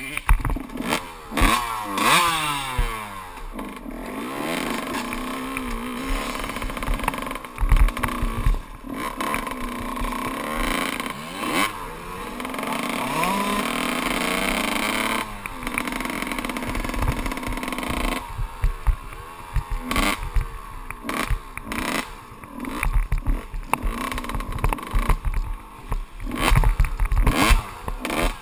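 Kawasaki KX 125 two-stroke single-cylinder dirt bike engine revving up and dropping back again and again as it is ridden hard off-road, with short clattering knocks throughout.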